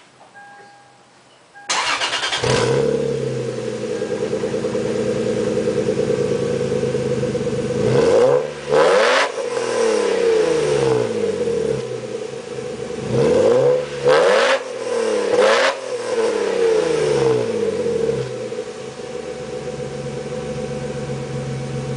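Lexus IS300's 2JZ-GE straight-six, fitted with a Megan header, OBX Y-pipe and Greddy Spectrum Elite exhaust, hot-started. It starts about two seconds in, catches at once and idles high. It is blipped several times in the middle, then settles to a lower, steady idle near the end.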